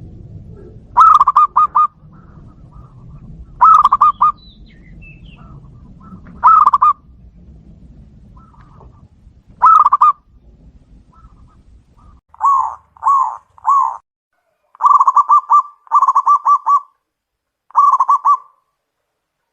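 Zebra doves (perkutut) cooing back and forth: loud rolling phrases of several quick notes, repeated every few seconds. About twelve seconds in a low steady hum underneath stops, and the calls go on as three short single coos followed by longer rolling phrases.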